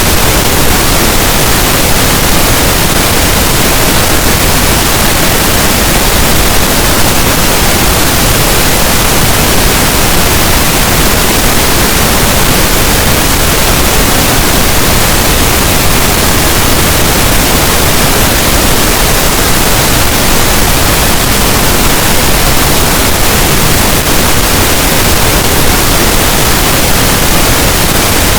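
Steady, unbroken pink noise: a loud, even hiss with no change in level.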